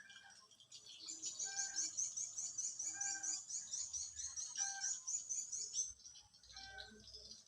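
Birds calling: a fast run of high chirps from about one second in until about six seconds, over a lower call that comes back about every second and a half.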